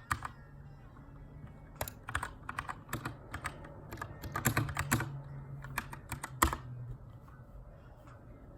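Typing on a Keychron K2 aluminum-framed mechanical keyboard with brown switches: irregular bursts of key clicks, densest in the middle, with one loud keystroke about six and a half seconds in. The typing trails off near the end.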